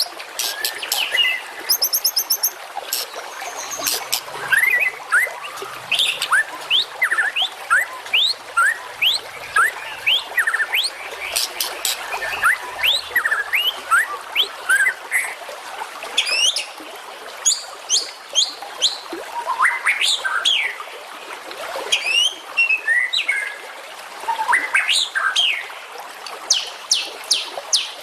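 Small songbirds chirping and calling in a dense, varied mix: many quick upward-sweeping whistled notes with rapid high-pitched ticks and trills, with hardly a gap.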